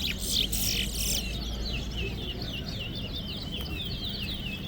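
Towa-towa (large-billed seed finch) singing: a long run of quick, wavering whistled notes, about three or four a second, with sharper high chattering notes in the first second.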